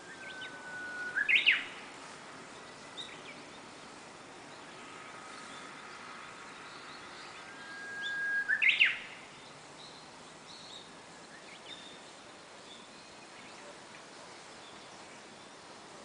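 Japanese bush warbler (uguisu) singing its "hoo-hokekyo" song twice, about seven seconds apart. Each song is a long steady whistle that breaks into a quick rising flourish. Fainter short high chirps come in between.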